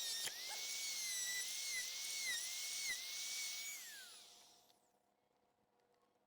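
Handheld router running freehand, its high whine dipping in pitch each time the bit bites into the porthole opening's edge and recovering. About four seconds in it is switched off and winds down.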